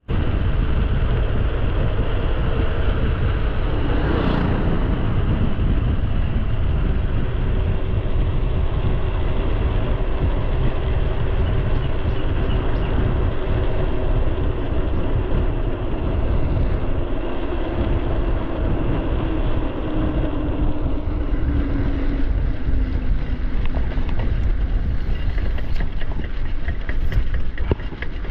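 Mountain bike riding along a trail: wind buffeting the action-camera microphone over the rumble of the tyres on the ground. A faint hum slowly falls in pitch through the middle, and a run of clicks and rattles comes near the end.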